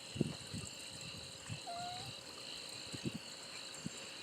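A steady chorus of crickets and other night insects, faint, with a few short soft low thumps scattered through it.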